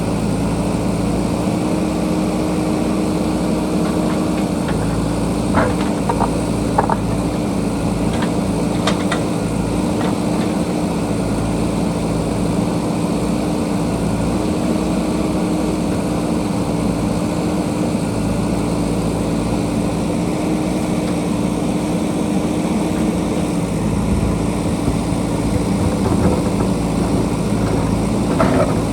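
JCB backhoe loader's diesel engine running steadily, with a few short knocks about six and nine seconds in.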